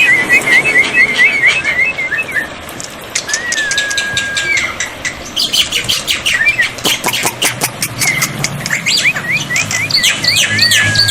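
Black-winged myna (jalak putih) singing: runs of quick rising chirps, a long level whistle, and a stretch of rapid clicking chatter.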